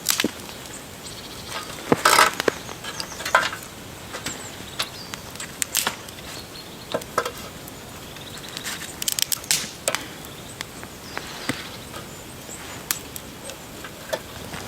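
Irregular crunches and sharp snaps, a dozen or so scattered at uneven intervals over a steady faint hiss.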